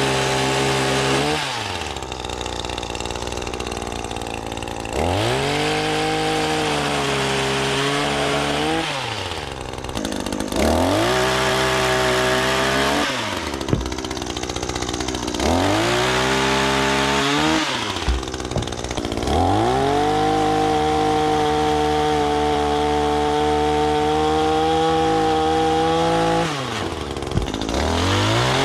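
Echo PPT-2620 two-stroke pole saw engine revved up to full cutting speed about five times, each run held for a few seconds before dropping back to idle. The last and longest run lasts about seven seconds.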